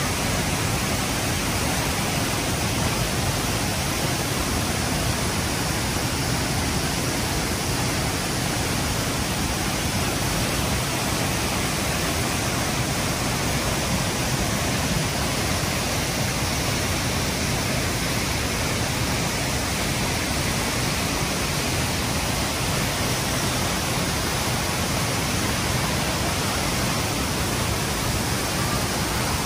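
Rushing river water, a steady, unbroken hiss and rumble.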